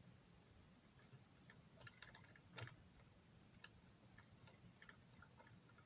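Near silence with a scatter of faint small clicks and ticks from small model parts being handled, the sharpest about two and a half seconds in.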